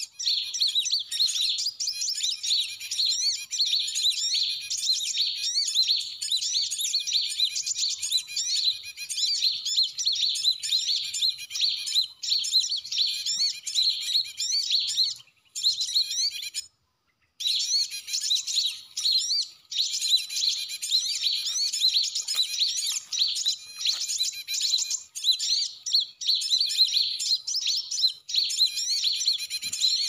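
Small birds chirping and twittering continuously in a dense, high-pitched chorus, cutting out completely for about half a second partway through.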